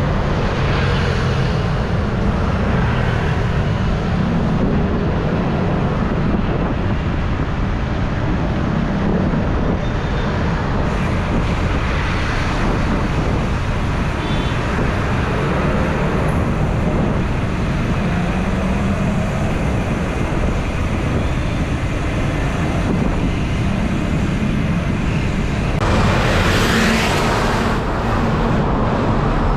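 Roadway traffic noise heard while riding along a highway, with wind buffeting the microphone. Near the end a louder rush suggests a vehicle passing close by.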